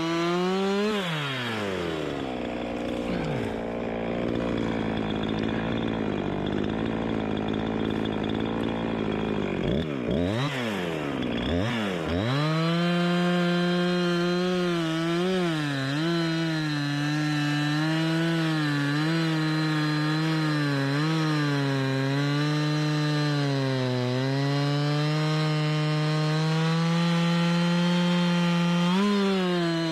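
Two-stroke chainsaw running hard while sawing wood. About a second in, its pitch drops and stays low for several seconds as it bogs into the cut. After a few quick rises and falls it climbs back up and holds high, wavering a little, for the rest of the time.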